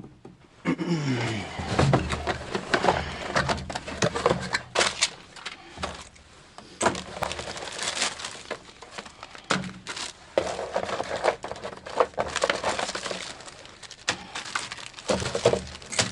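Crinkling and rustling of packaging with sharp clicks and clatter, as the box of a universal furnace igniter board kit is opened and its many loose parts are handled.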